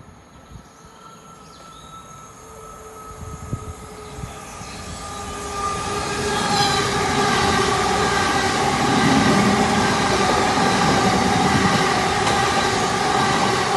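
A train approaching and passing close by, growing louder over the first six seconds, then running past with a steady whine of several tones over the rumble and rush of the wheels.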